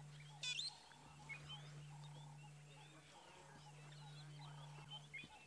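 Faint bird calls: scattered short chirps and one louder rising trill about half a second in, over a steady low hum.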